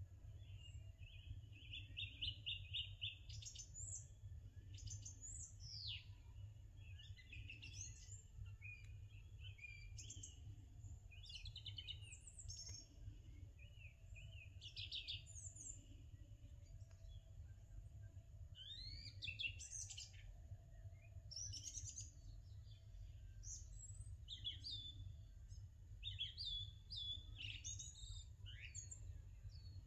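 Several small birds chirping and calling throughout, with a quick trill near the start and many short, varied chirps and downward-sweeping notes, over a low steady rumble.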